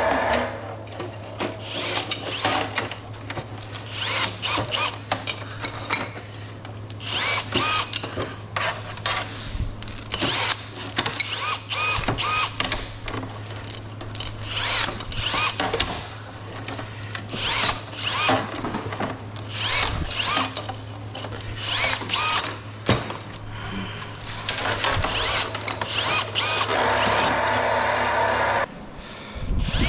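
Scrap metal being handled and tossed: repeated clanks and rattles over a steady low hum. A power tool runs for a couple of seconds near the end.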